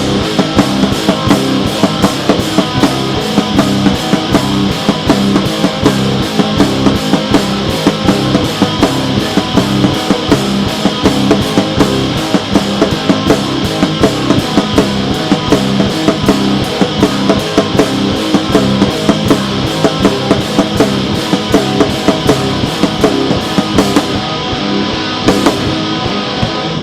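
Loud rock music with distorted electric guitar and a fast, steady drum beat, starting abruptly and cutting off at the end.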